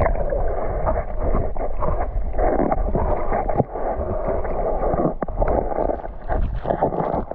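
Water splashing and sloshing as people wade in a shallow creek, sounding muffled, with wind on the microphone and a few sharp knocks.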